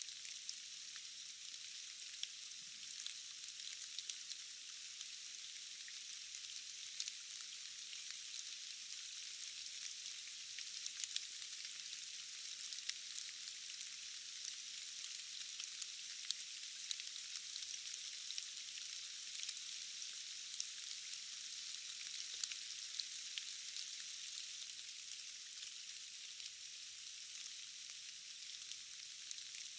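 Steady rain, a fine high hiss dotted with many small drop ticks and almost no low rumble.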